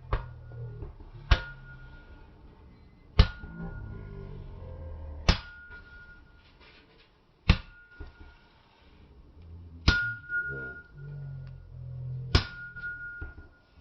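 Blacksmith's hammer striking metal on an anvil, seven sharp blows spaced about two seconds apart. Each blow leaves a clear ringing tone that hangs on for a second or more.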